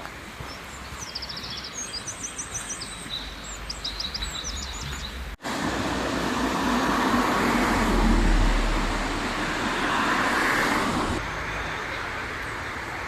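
Steady rushing of a river, with a songbird singing quick runs of high chirps over it for the first five seconds. After an abrupt cut, a louder, fuller rushing swell lasts about six seconds, then eases back to the steady rush.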